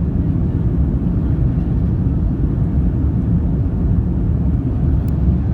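Airbus A310-304 airliner heard from inside the cabin on final approach with flaps and landing gear extended: a steady, loud low rumble of engine and airflow noise.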